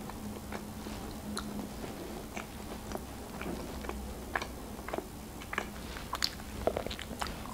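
A person biting and chewing pizza crust, with small crisp crunches and clicks that come more often and louder in the second half.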